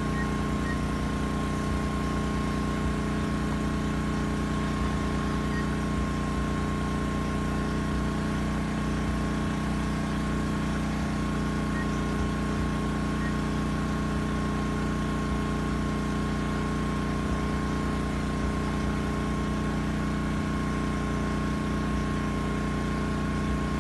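Multirotor agricultural spraying drone's propellers humming steadily while it sprays, a constant drone with a few fixed whining tones that does not rise or fall.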